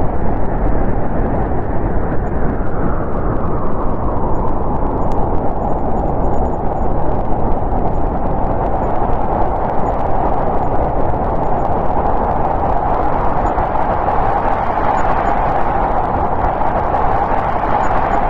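Snowstorm wind blowing in a steady, dense rush that swells and eases gently.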